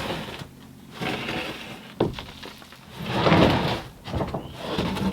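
Sheets of plywood being dragged and shifted out of a pile, with rough scraping slides and a sharp wooden knock about two seconds in.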